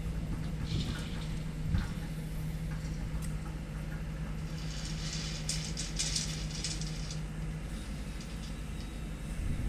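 Hydraulic excavator's diesel engine running steadily with a constant low hum, with bursts of higher-pitched rattling about a second in and again around five to seven seconds.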